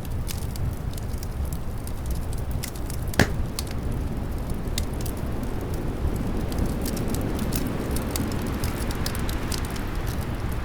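Wood fire crackling with scattered sharp pops, one louder pop about three seconds in, over a steady low rumble of winter wind.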